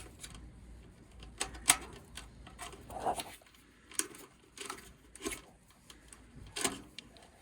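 Irregular knocks and clicks of metal parts as a heat pump's blower assembly is worked loose and lifted out of its cabinet, the sharpest knock about two seconds in.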